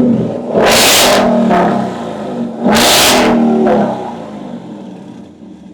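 Ford Mustang GT's 5.0 V8 being revved twice in quick blips, each rev rising sharply and falling away, then settling back to idle near the end.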